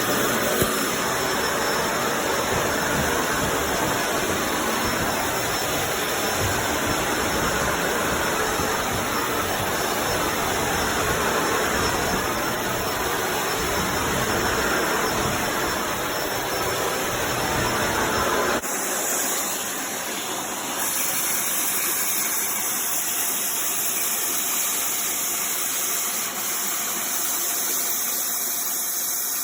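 Upright vacuum cleaner running steadily on carpet. About two-thirds of the way through, its low rumble drops out abruptly, leaving a higher hiss.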